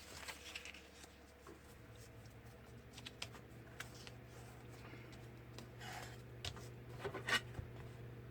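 Paper being handled and folded: soft rustles of a parchment paper strip and a few small taps and clicks as it is creased and measured.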